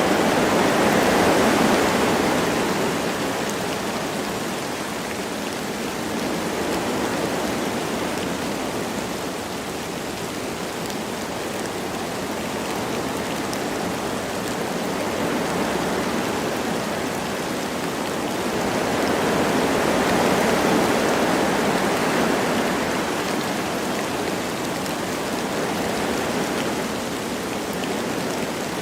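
Wind blowing through forest trees with light rain falling, a steady rushing that swells in slow gusts, strongest about a second in and again about twenty seconds in.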